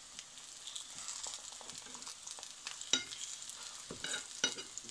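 Plantain slices sizzling as they fry in olive oil in a frying pan, with a few sharp clicks of a metal fork against the pan as the slices are turned over, the loudest about three seconds in and another near the end.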